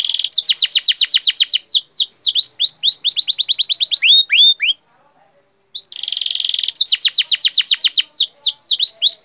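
Bird-like chirping song: a high buzzy trill, then a fast run of down-slurred notes and a few swooping whistles, the whole phrase sounding twice with a short silent gap about five seconds in.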